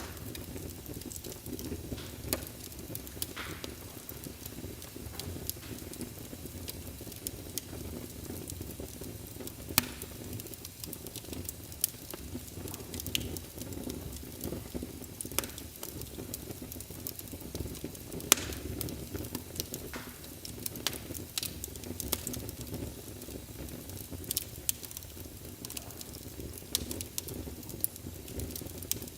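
Fire burning in a fireplace: a steady low rush of flame with scattered sharp crackles and pops, one louder pop a little past halfway.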